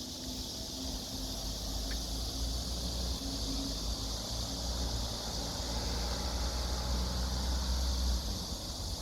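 Cicadas buzzing in a steady, high, even drone. Underneath it a low rumble runs until it drops away near the end.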